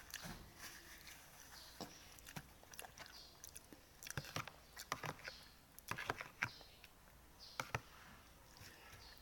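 Close-up eating sounds from a noodle meal: chewing and mouth noises broken by a run of short, sharp clicks and taps, most of them in the middle of the stretch.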